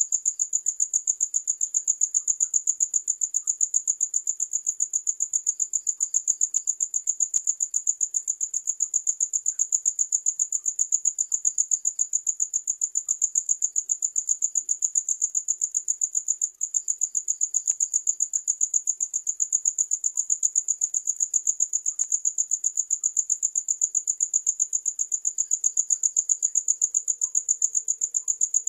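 A cricket chirping in a fast, even, unbroken rhythm, one high-pitched note repeated over and over.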